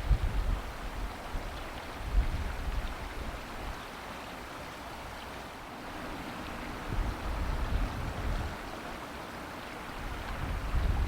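River water rushing steadily, with low gusts of wind buffeting the microphone several times.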